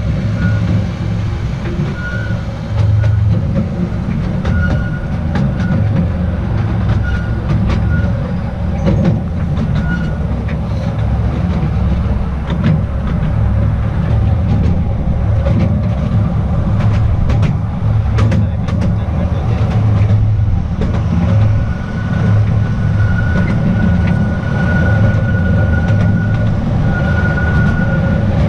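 Small narrow-gauge Artouste tourist train running along its track: a steady low rumble with scattered clicks from the wheels, and a thin high squeal that comes and goes, held longer from about two-thirds of the way in.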